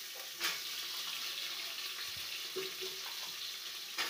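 Hot oil sizzling in an aluminium pressure cooker as handfuls of diced raw potato are dropped in, with a couple of sharp knocks, about half a second in and near the end.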